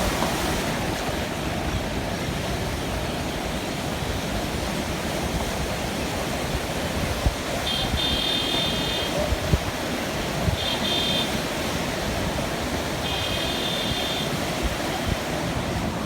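Steady rushing of a river in flood. Three brief high-pitched calls come about eight, eleven and thirteen seconds in.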